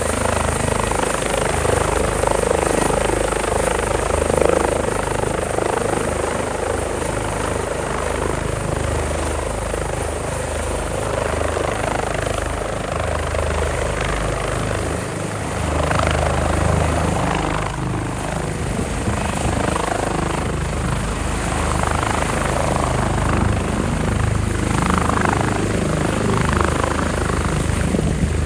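Airbus EC145T2 helicopter running steadily and loudly: the beat of its main rotor under the whine and rush of its turbines.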